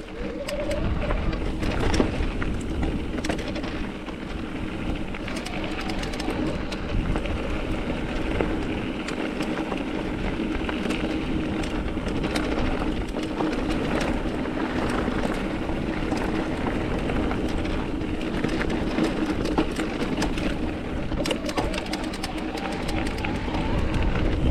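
Mountain bike rolling fast over a loose, rocky dirt trail: tyres crunching over gravel and rock, with scattered clicks and rattles from the bike and wind on the microphone.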